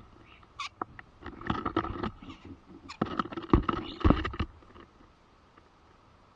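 Starlings scrabbling and pecking at a birdhouse: irregular clicks and scratches, a few short thin calls, and two heavier knocks in the middle.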